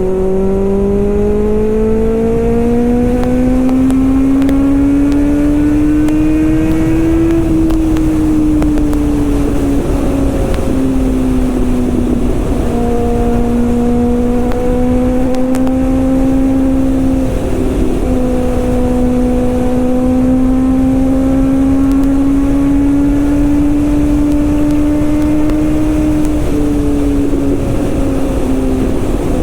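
Kawasaki ZX-6R's inline-four engine and exhaust under way, its pitch climbing steadily for the first seven seconds or so, then easing off and holding near steady with two brief dips, over constant wind noise.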